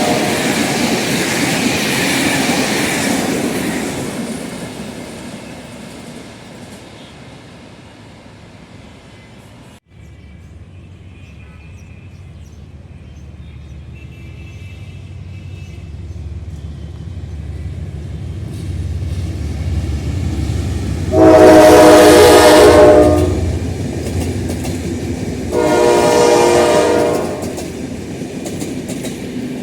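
A General Electric diesel locomotive and its train: a passing train rumble fades away, then after a cut another train approaches with a steadily building rumble. Two loud horn blasts sound near the end, a long one and then a shorter, quieter one.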